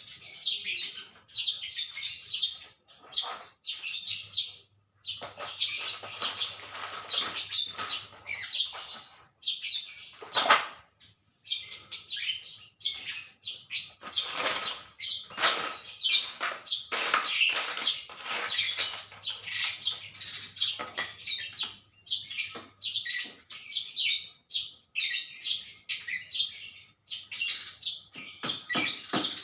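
Small birds chirping rapidly and almost without pause, high-pitched, with a few louder, fuller noises among the calls.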